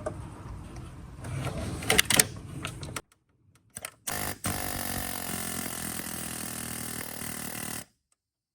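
Pneumatic air hammer rattling against the large fan clutch nut on a water pump. After a few metal clanks it runs in a short burst and then a steady rapid rattle for about three seconds before stopping abruptly. The nut does not break loose because the small compressor gives the air hammer too little air pressure.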